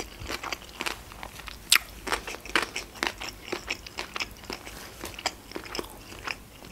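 A person chewing sushi rolls with the mouth closed, close to the microphone: an irregular run of wet mouth clicks and soft crunches, several a second.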